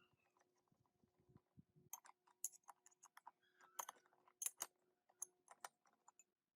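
Faint, irregular clicks and clinks of small metal parts being handled, starting about two seconds in.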